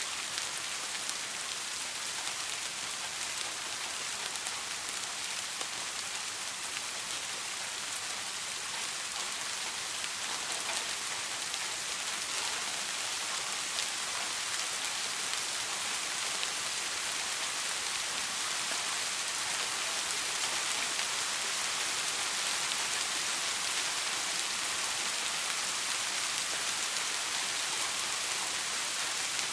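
Soft rain falling steadily: an even hiss with scattered small drop ticks and no thunder.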